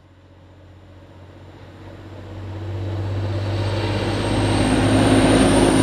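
TransPennine Express Class 185 diesel multiple unit approaching on the platform line: its diesel engine drone and rail noise grow steadily louder, with a faint high whine above.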